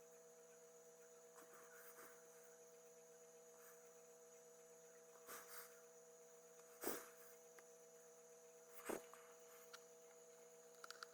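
Near silence: a steady faint electrical hum, broken by a couple of soft knocks or taps about seven and nine seconds in.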